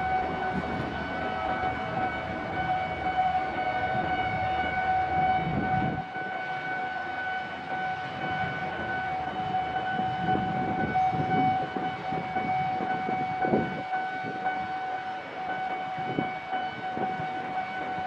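A train passing on the line, with a rumbling low end, a few knocks and a steady high-pitched tone with overtones held throughout.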